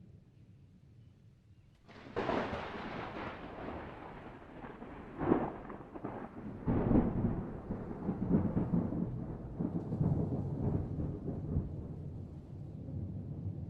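Thunder: a sudden sharp crack about two seconds in, further cracks a few seconds later, then a long low rolling rumble.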